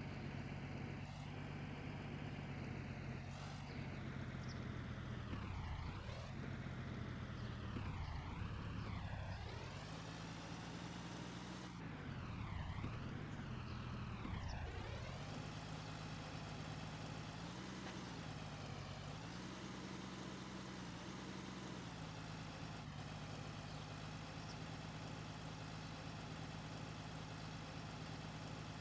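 Tractor engine running, its speed dropping and rising several times in the first half, then holding steady.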